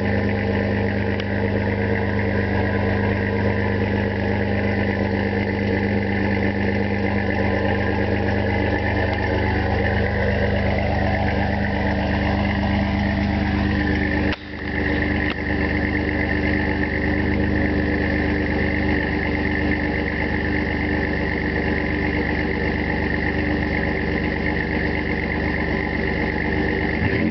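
A 2003 Chevy S10's 4.3-litre Vortec V6 idling steadily through a Flowmaster 40 Series dual exhaust with a high-flow cat and the factory resonator removed.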